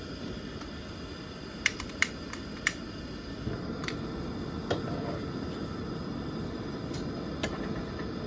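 Several short, sharp clicks and knocks, about seven in all and irregularly spaced, the loudest three close together in the first third, over a steady low background rumble.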